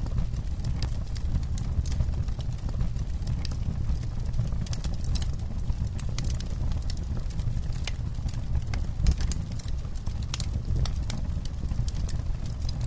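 Campfire burning: scattered sharp crackles and pops of burning wood over a steady low rumble.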